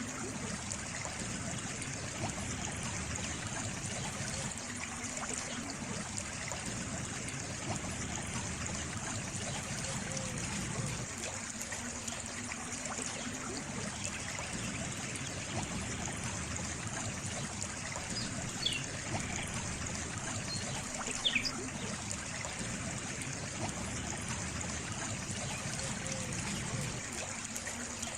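Water trickling and running steadily, as in a small stream. Two brief high chirps come about two-thirds of the way through.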